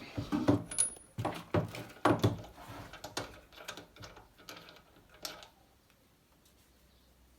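Clicks, knocks and clatter of metal parts being handled, as a spark plug and tools are worked on to check the plug's gap. The clatter is busiest in the first couple of seconds and dies away after about five seconds.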